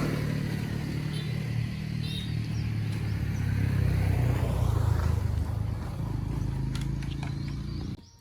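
Off-road motorcycle engine running, its note rising slightly and getting louder around the middle, then cutting off suddenly near the end.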